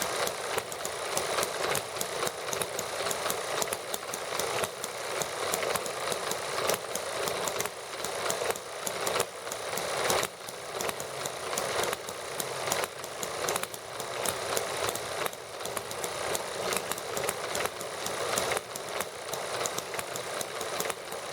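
Small model gasoline engines running steadily: a fast, light, mechanical clatter of rapid ticks whose loudness wavers unevenly.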